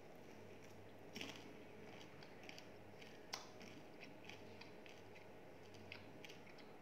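Faint chewing of crispy food: scattered soft crunches and clicks, the sharpest about a second in and again about halfway through, over a low room hum.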